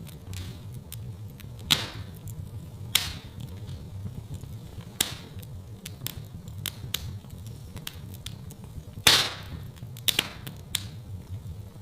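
Wood fire in a fireplace crackling, with irregular sharp pops and snaps; the loudest comes about nine seconds in, with a quick cluster just after. A low, steady rumble lies beneath.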